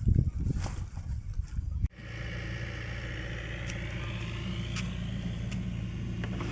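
A few seconds of irregular low bumping and rustling that cuts off suddenly, then a steady low engine-like drone.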